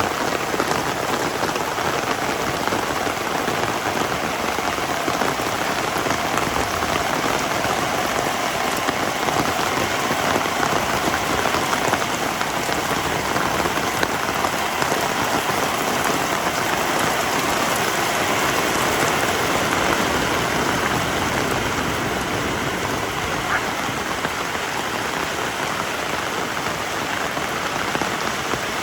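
Heavy rain falling steadily on surfaces in a dense, even patter.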